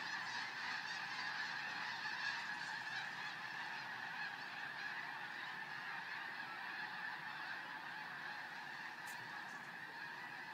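A large flock of birds calling all at once: a dense, continuous din of many overlapping honking calls, easing off slightly toward the end.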